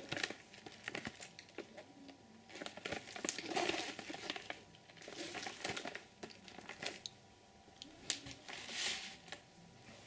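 Firework cake packaging being handled: irregular crinkling and rustling with a few light knocks.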